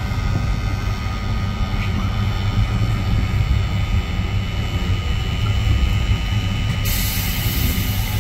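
Metrorail X'Trapolis Mega electric commuter train rolling past at close range: a steady low rumble with a faint thin whine over it. Near the end a loud hiss starts suddenly and lasts about two seconds.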